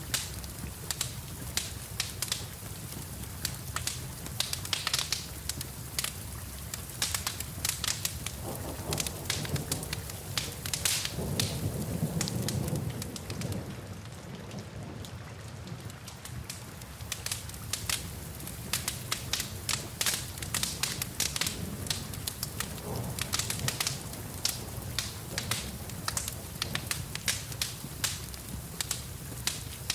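Wood fire crackling and popping over steady rain. A low rumble swells up for a couple of seconds just before the middle.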